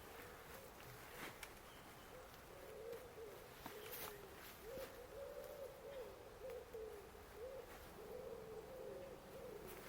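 Faint, low-pitched bird calls, wavering up and down in short repeated phrases, with a few light knocks.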